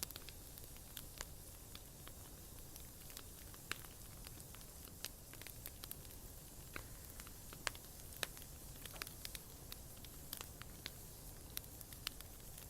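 Bonfire burning, with irregular sharp crackles and pops from the burning wood over a low rumble.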